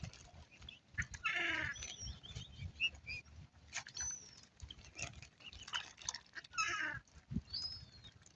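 Waterbirds calling at a feeding spot: a few short, nasal, falling calls, about a second in and again near the end, with thin high chirps in between.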